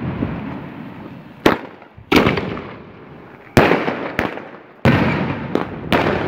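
Fireworks going off: a rapid series of about seven sharp bangs, some close together in pairs, each trailing off in a rolling echo.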